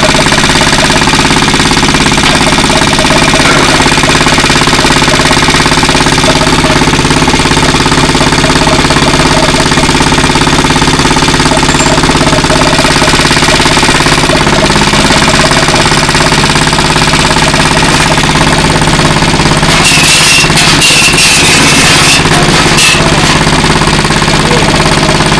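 Small pull-start petrol engine on a concrete mixer running steadily and loudly at a constant speed. A spell of harsher hissing noise comes in near the end.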